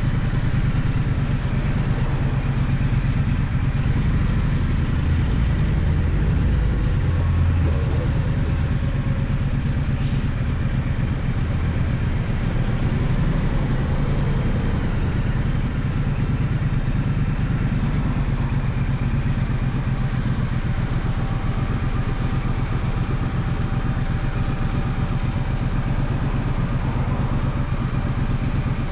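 Gaokin GK1200 motorcycle engine running steadily, with no big revs.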